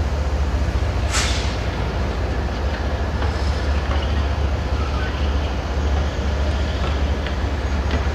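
Approaching freight train's diesel locomotive running with a steady low rumble, and a short hiss about a second in.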